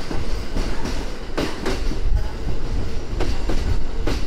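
Kintetsu electric train rolling past the platform with a steady low rumble, its wheels clacking over track joints in pairs of clicks about a third of a second apart.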